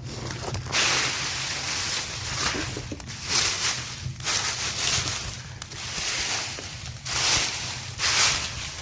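Gusty wind rushing over the microphone, surging and easing every second or so.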